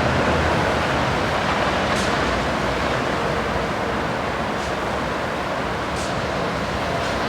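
Honeybee colony buzzing steadily from a hive opened for inspection, a dense even hum.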